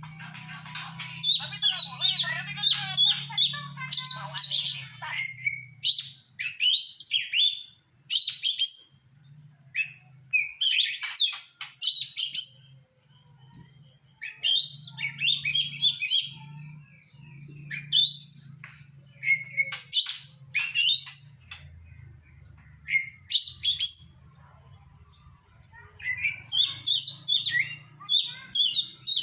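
Oriental magpie-robin (kacer) singing a fast, varied song of chirps and whistled notes strung with imitations of other birds. Dense for the first few seconds, then in separate phrases with short pauses, and dense again near the end, over a faint steady low hum.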